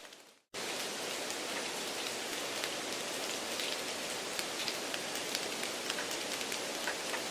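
Steady rain-like hiss with a faint crackling patter, laid in as background noise to mimic a bad exam-room broadcast. It cuts in about half a second in after a brief dropout.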